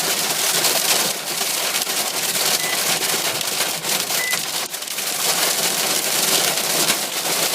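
Hail and heavy rain pelting a car's roof and windows, heard from inside the cabin: a loud, steady, deafening clatter of countless small hard hits.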